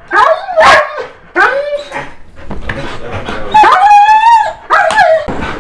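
A dog barking and yelping over and over, with one longer howl about four seconds in.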